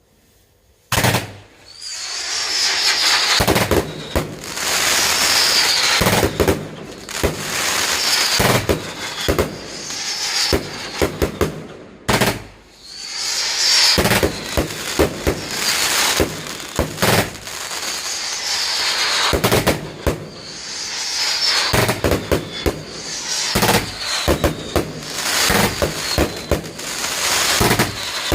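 A fireworks barrage goes off suddenly about a second in: continuous crackling and hissing, packed with sharp bangs, running almost without a break and easing briefly about halfway through.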